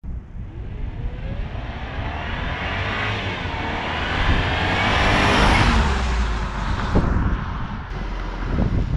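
2003 Jaguar XJR's supercharged V8 approaching and driving past, growing louder to a peak about five and a half seconds in, then fading as it moves away.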